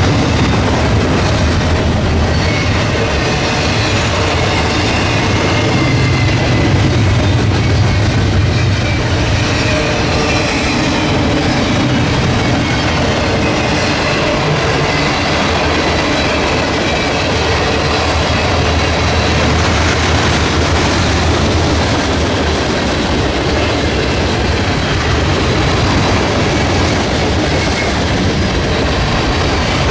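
Freight train cars rolling steadily past on the rails, loud and unbroken.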